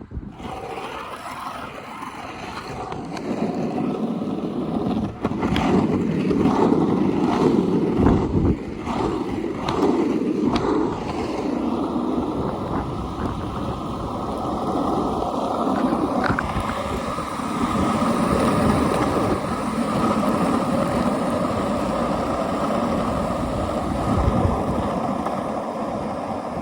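Skateboard wheels rolling fast down an asphalt hill, with wind buffeting the microphone; the rolling noise grows louder a few seconds in as speed builds. A run of short knocks comes in the middle of the ride.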